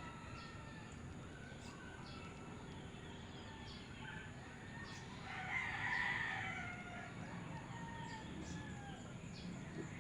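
A rooster crowing once, about halfway through, a call of roughly a second and a half, with faint bird calls around it.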